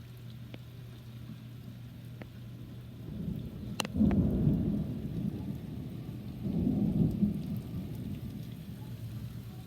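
Thunder rumbling in two rolling swells starting about four seconds in, over steady rain falling during a severe thunderstorm.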